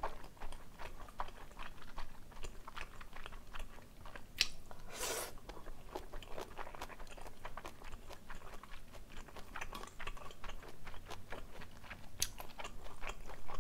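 Close-miked wet, crunchy chewing of a mouthful of jajangmyeon sauce with pork and green chili: a dense run of small mouth clicks and crunches, with a few louder, sharper noises about four and five seconds in and again near the end.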